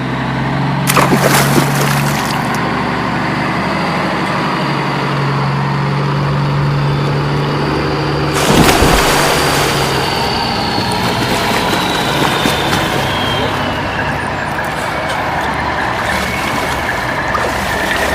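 A vehicle engine running steadily under a thin high whine that slowly falls in pitch in the second half, with two loud hissing bursts, one about a second in and a louder one about eight and a half seconds in.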